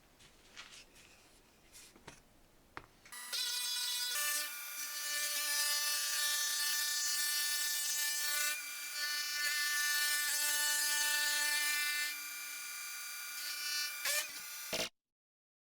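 Trim router starts about three seconds in and runs at a steady high whine while its bit cuts wood, with a hissing cutting noise over the motor; the sound cuts off abruptly near the end.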